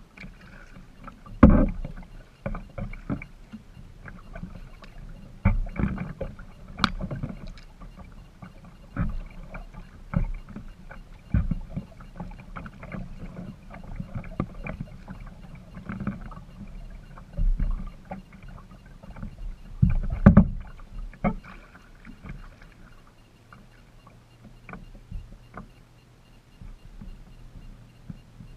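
Kayak being paddled: irregular paddle strokes and water splashes, with sharp knocks of the paddle against the hull, the loudest about a second and a half in and again about twenty seconds in, over a low steady rumble.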